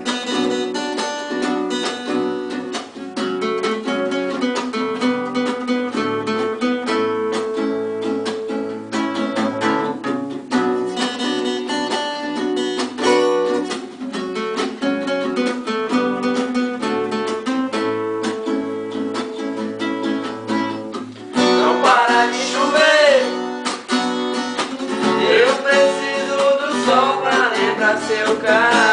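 Acoustic guitar playing a solo of picked and strummed notes. About two-thirds of the way through, a singing voice joins in and the music gets louder.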